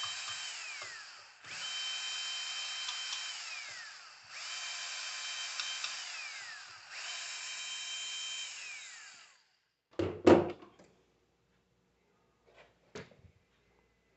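Electric drill spinning in four short runs, each a steady high whine that winds down in pitch as the trigger is let go, backing out the screws that hold the alternator's end housing. Near the end come a couple of loud metal knocks and a click as parts are set down.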